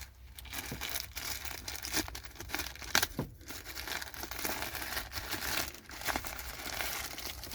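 A small parts package being handled and torn open: its wrapping crinkles and rustles steadily, with sharp crackles and a few louder snaps along the way.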